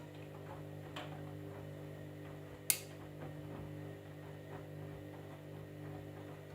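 Candy EcoMix washing machine running with a steady low hum and faint irregular ticking, and one sharp click a little before the middle.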